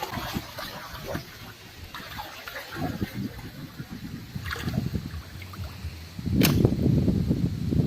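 Shallow water splashing and sloshing irregularly, louder from about six seconds in, with a sharp splash soon after.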